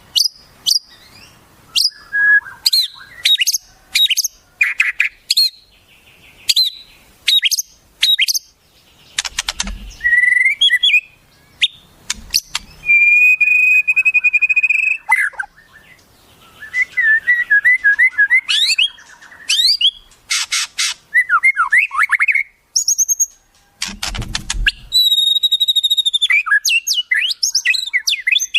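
A rapid medley of wild songbird calls: sharp chips, sweeping whistled notes and fast trills, one held for a couple of seconds. Two brief low thumps come about ten seconds in and again about twenty-four seconds in.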